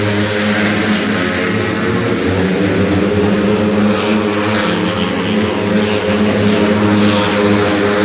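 Racing underbone motorcycle engines running, a loud continuous buzz that holds a nearly steady pitch.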